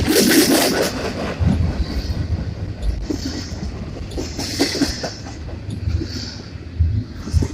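Union Pacific container freight train rolling past, its wheels clattering over the rail joints. It is loudest in the first second and then eases off.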